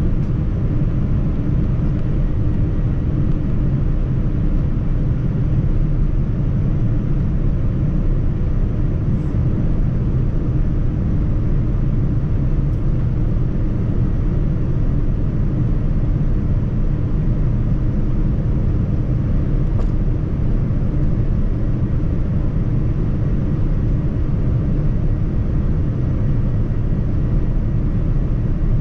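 Steady low rumble of cabin noise inside a Boeing 787-9 airliner, engine and airflow noise with no change.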